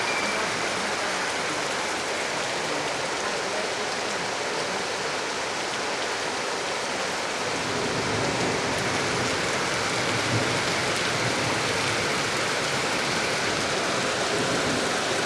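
Heavy rain pouring down steadily, a dense even hiss of rain falling on the ground.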